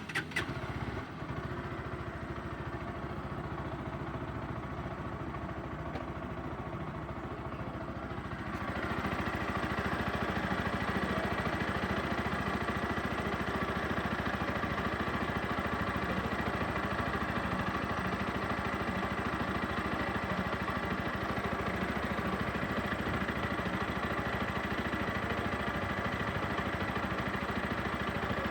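Bajaj Pulsar NS160 FI motorcycle's single-cylinder engine, at about 10,700 km, catching right at the start and then idling steadily. About eight seconds in it gets louder and brighter and holds there.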